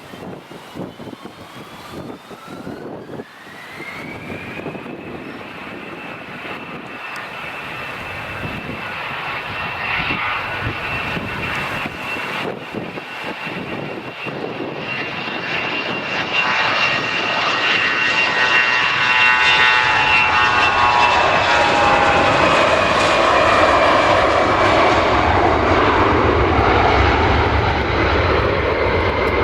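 Airliner's engines spooling up with a whine that rises over the first few seconds and then holds steady. A broad engine rumble swells louder through the rest, and the whine eases slightly in pitch near the end.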